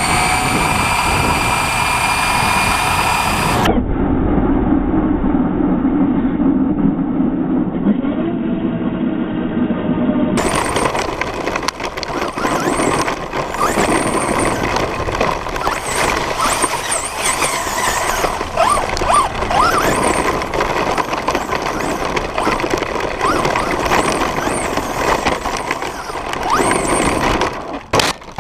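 Electric RC trucks running: motor and drivetrain whine that rises in pitch at the start, over rough tyre and road noise, with the sound changing abruptly about 4 and 10 seconds in.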